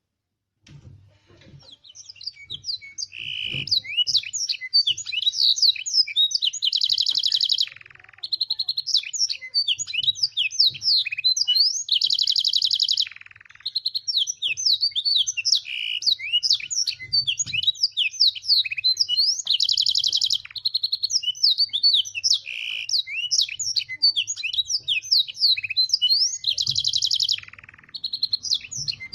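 Domestic canary singing a long, unbroken song of rapid chirps and sweeping notes, with a rolled trill about every six seconds; its song is filled with blackthroat and sanger phrases. The song starts about a second in.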